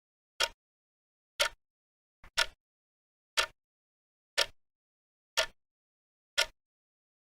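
Countdown timer sound effect ticking, one sharp tick each second.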